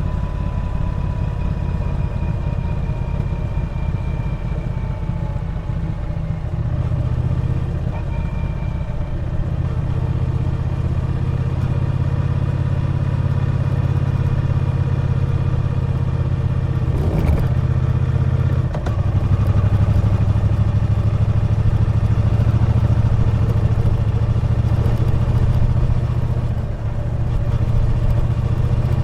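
Triumph Bonneville T120 parallel-twin engine running as the motorcycle is ridden at a steady pace. About two-thirds of the way through there is a brief dip, and then the engine pulls a little louder.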